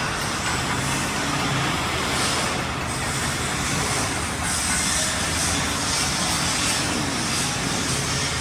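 Tractor engine running steadily under a broad, even hiss.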